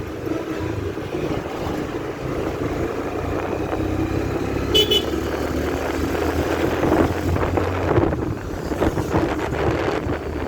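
Motorcycle riding along a road: steady engine and road noise, with one short horn toot about halfway through.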